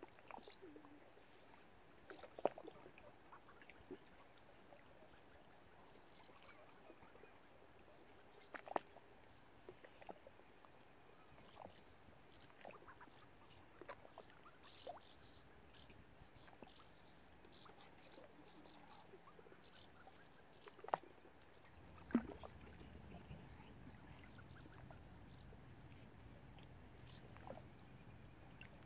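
Quiet lakeside ambience: scattered soft clicks and small splashes with faint high bird chirps. A low steady rumble comes in about two-thirds of the way through.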